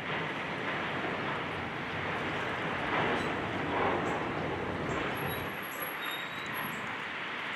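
Steady engine and machinery noise from heavy equipment and street traffic. It swells about three to four seconds in, and its low part drops away about five and a half seconds in.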